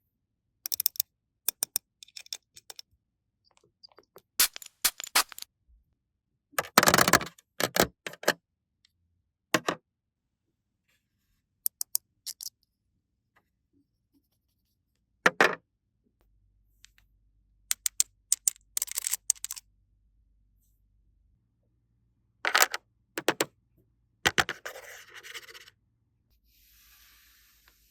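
Small plastic toy pieces being handled: scattered sharp clicks and taps, with a few short scraping rustles, separated by stretches of silence.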